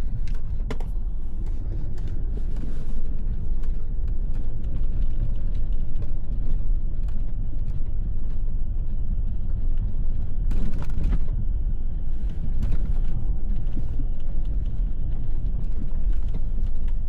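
Lexus SUV driving over a rough snowy track: a steady low rumble of engine and tyres, with creaks and rattles from the body and suspension and a louder burst of noise about ten seconds in.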